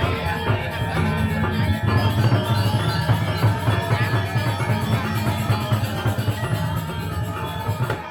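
Balinese gamelan music: bronze metallophones and drums playing a dense, busy passage.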